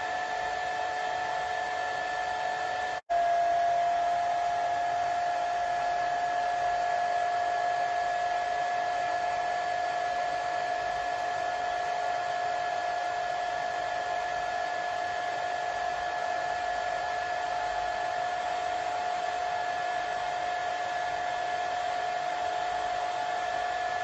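Hair dryer running steadily: a constant blowing rush with a steady whine over it. About three seconds in the sound drops out for a split second. It comes back slightly louder with the whine a touch lower, then settles.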